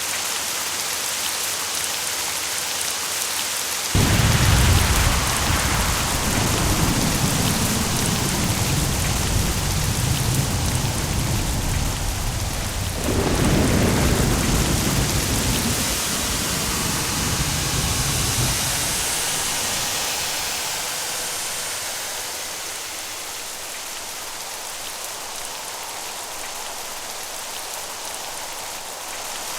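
Steady heavy rain with a thunderclap that breaks in suddenly about four seconds in. A second crack comes about nine seconds later, and the deep rumble fades out over the next several seconds while the rain carries on.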